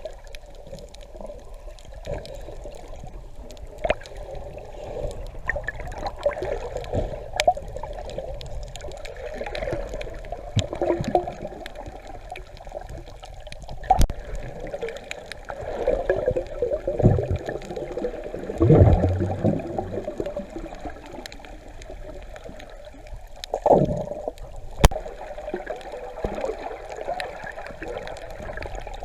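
Water recorded underwater: a steady gurgling with louder bubbling surges, the strongest about two-thirds of the way through, and scattered sharp clicks throughout.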